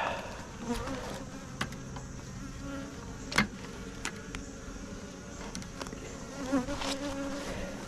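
Honeybees buzzing as a steady hum around an open hive, with a few sharp clicks. The loudest click comes about three and a half seconds in.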